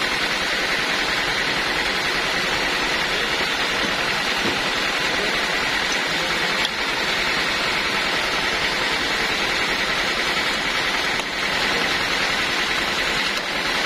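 Sawmill machinery running: a steady, even rushing noise with no clear pitch.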